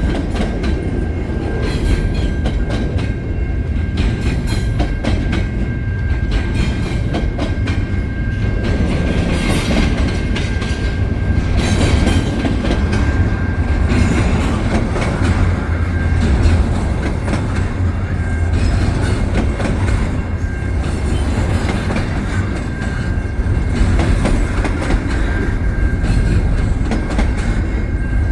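Cars of a CN double-stack container freight train rolling steadily past: a continuous low rumble of wheels on rail with clickety-clack over the joints, and a thin steady high tone running through it.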